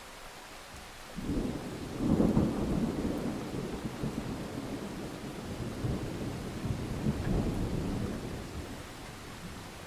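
Rolling thunder over steady rain. The rumble rises about a second in, is loudest about two seconds in, swells again around seven seconds and dies away near the end.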